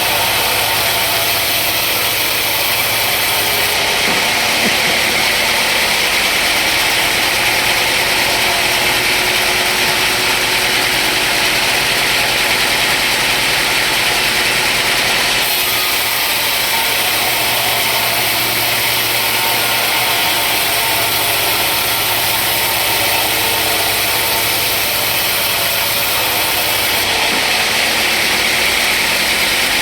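Sawmill machinery running steadily with a dense, engine-like drone. The sound shifts abruptly three times, at about 4, 15 and 27 seconds in.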